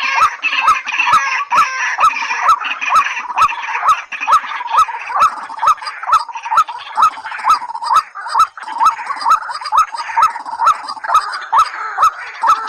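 Recorded calls of rails such as the white-breasted waterhen: a fast, unbroken series of short rising notes, about two a second, with regular sharp clicks running through them.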